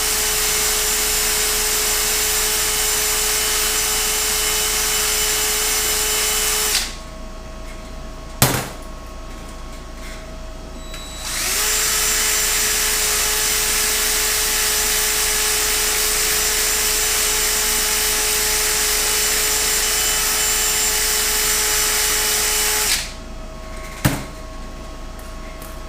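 A handheld power tool runs steadily with a constant whine. It stops about seven seconds in, starts again about four seconds later, and stops again near the end. A single sharp click sounds in each pause.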